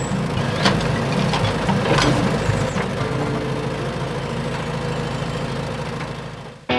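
An engine idling steadily with a low hum, with a few sharp clicks about one and two seconds in; it fades and stops just before the end.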